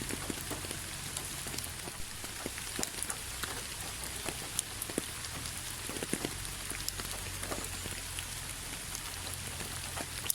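Steady rain falling on a hard surface, with many separate drops ticking sharply over the hiss.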